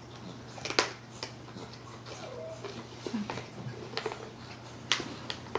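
Scattered light taps and clicks, irregular and about a second apart, as a baby feeding himself plays with banana pieces, with a couple of faint brief soft sounds between them.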